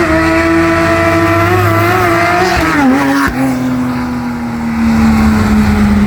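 Sports car engine held high in the revs, its note steady with a slight waver, then dropping about three seconds in; after a sharp click, a lower steady engine note follows and slowly falls.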